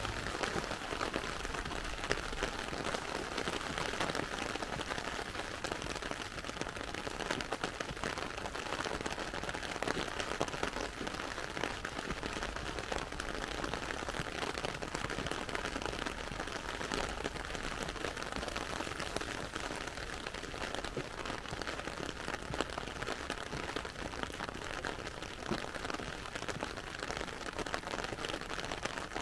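Heavy rain falling steadily on pavement and road, a dense, even patter of drops.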